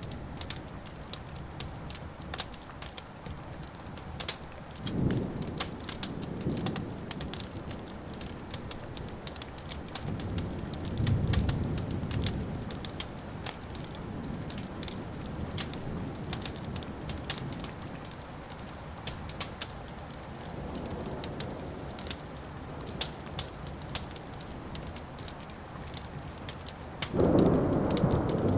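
Wood fire crackling and popping steadily, while thunder rumbles low several times; the loudest roll builds near the end.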